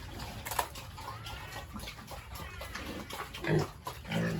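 Farm animals calling in the pen: scattered short calls, then low grunts from about three and a half seconds in, with a sharp knock about half a second in.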